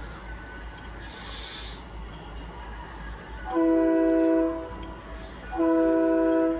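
A multi-note chord air horn sounds two steady blasts of about a second each, separated by a gap of about a second. Whether it is a train horn or a boat's horn is unresolved.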